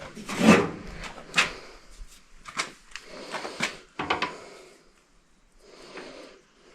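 Hand tools being handled: about five sharp metal clinks and knocks, most likely a wrench passed over and set to work on the hydraulic fittings. The loudest comes about half a second in, and a short soft rustle follows near the end.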